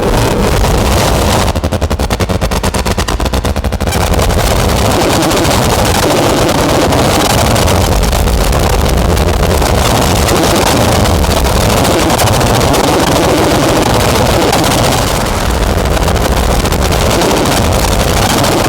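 Modular synthesizer noise drone (Make Noise Strega, Maths and Morphagene) driven through Death By Audio fuzz and filter pedals: a loud, dense, rumbling wash of distorted noise with heavy low end. A rapid stutter runs through it in the first few seconds.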